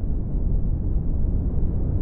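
Synthesised brown noise: a steady, deep rushing hiss with most of its weight in the low end and little above a few thousand hertz, its tone slowly shifting as it is modulated.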